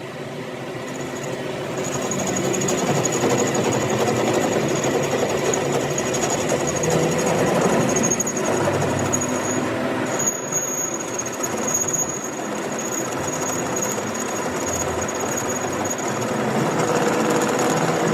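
Metalworking machine running steadily with a thin high whine over a dense grinding noise, building up over the first few seconds.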